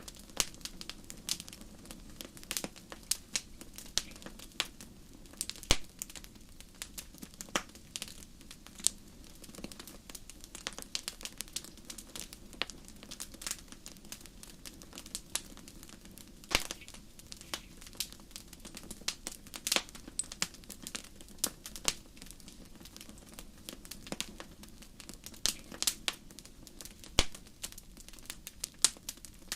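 Campfire crackling: irregular sharp pops and snaps, several a second, over a steady low rush of burning.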